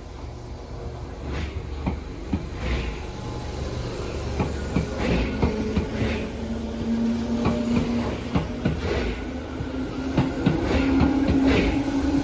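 Tobu line electric train drawing near, its wheels clicking over the rail joints, growing louder throughout. From about halfway in, a low motor whine rises slightly in pitch.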